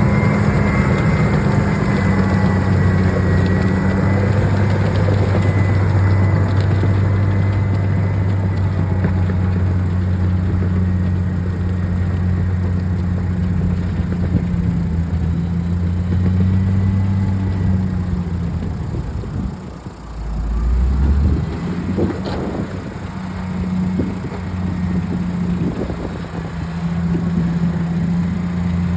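Komatsu D65PX-16 bulldozer's diesel engine running with a steady low drone. About twenty seconds in it drops away briefly with a low thud, then picks up again less evenly.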